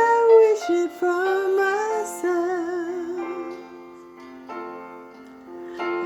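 Music: a woman singing slow, held notes, one with a wavering vibrato, over a soft plucked or keyboard accompaniment. It eases off for a moment and swells again near the end.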